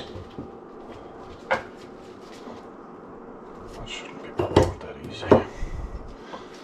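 Hard knocks and clunks from handling work in a small room: one about a second and a half in, then the two loudest about a second apart near the end, with light clicks between.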